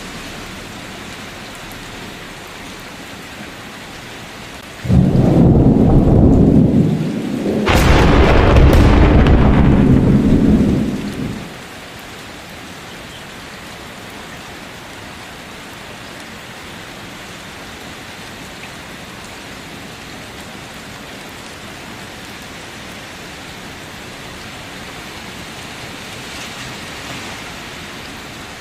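Steady rain falling during a thunderstorm. About five seconds in, thunder breaks suddenly, with a second, sharper crack two or three seconds later. The thunder rumbles on for several seconds before fading back to the rain.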